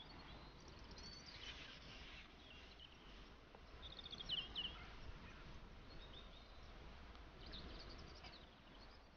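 Small birds chirping in three short bursts, loudest about four seconds in, over faint steady outdoor background noise.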